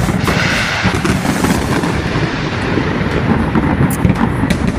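Fireworks display: a continuous rumble of bursting shells, with a hissing crackle in roughly the first second and a half and a few sharp cracks.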